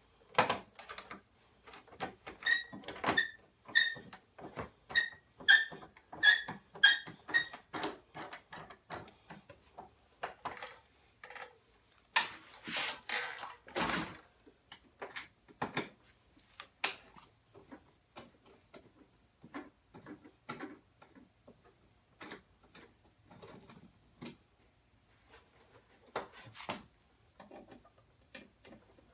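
Tool work on the side-panel screws of a zero-turn lawn mower: irregular clicks, taps and knocks of a screwdriver and metal parts being handled. A few seconds in comes a run of about a dozen short, high squeaks.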